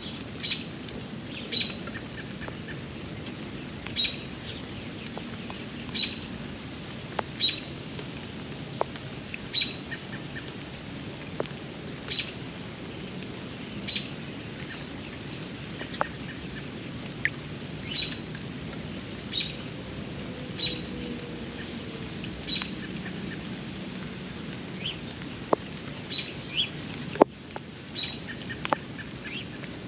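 Steady rain, with a bird giving a short, high call over and over, about once every two seconds. Scattered sharp drips tick in between, one louder near the end.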